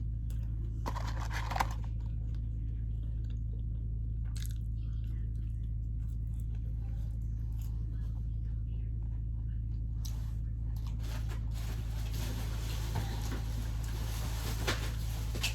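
A person chewing and biting food close to the microphone, with scattered crunches and mouth clicks, over a steady low hum.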